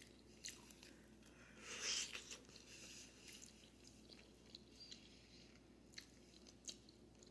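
Faint, wet chewing and biting as a person eats meat off a beef soup bone, with scattered small clicks and one louder, drawn-out noise about two seconds in.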